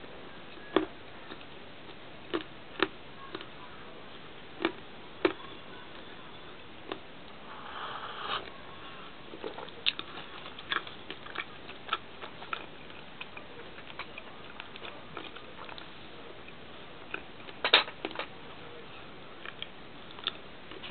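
Close-up chewing of a Crunch bar: irregular crisp crunches and wet mouth clicks, with a louder cluster of crunches a few seconds before the end.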